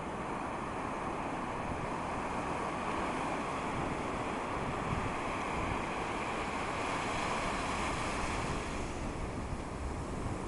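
Ocean surf rushing steadily, with wind buffeting the microphone; the rush swells in the middle and eases near the end.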